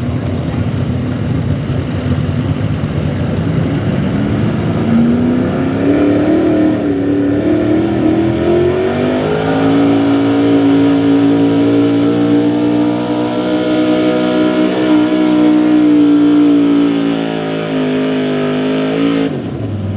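Small-block V8 4x4 pulling truck under full load dragging a weighted sled. The engine runs rough at first, then climbs steadily in revs and holds high for about ten seconds. It shuts off abruptly near the end as the pull ends.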